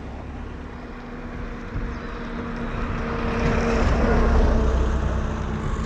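Wind buffeting and rushing over a GoPro Hero 9's built-in microphone on a moving motorcycle, with a steady engine hum underneath; the low wind rumble swells and grows louder about three seconds in.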